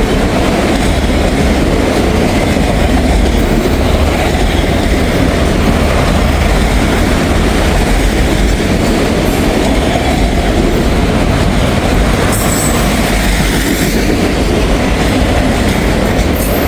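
Freight train of empty auto rack cars rolling past at close range: a loud, steady rumble and clatter of steel wheels on the rails.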